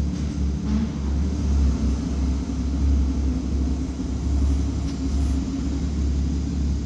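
Porsche Cayman GT4's 3.8-litre flat-six idling, a steady low rumble.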